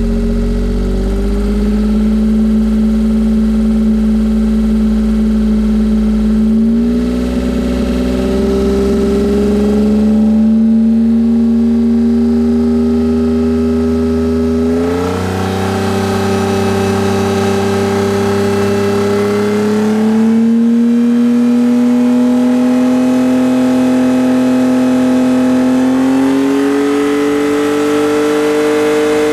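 Exhaust note of a Suzuki Alto Works (HA11S) through a Suzuki Sport TYPE-St sports muffler: its 660 cc turbocharged three-cylinder engine held at steady revs that step up five times, each step a short rise in pitch, showing how the muffler sounds across the rev range.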